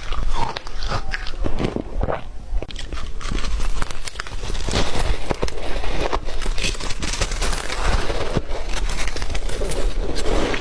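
Ice being bitten and chewed close to the microphone: loud, dense, irregular crunching and crackling.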